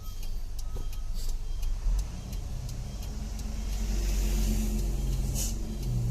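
Truck engine running steadily under load while the truck descends a steep road in a low gear, with a short hiss near the end.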